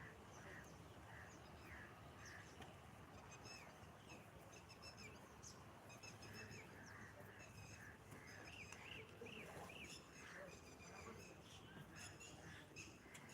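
Faint chirping of small birds: many short high calls repeated throughout, with a few arched notes about two-thirds of the way in, over a low steady background noise.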